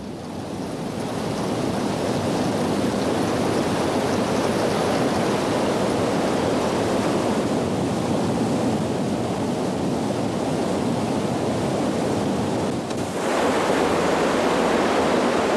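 Niagara Falls' heavy, steady rush of falling water, swelling in over the first couple of seconds and turning slightly brighter about thirteen seconds in.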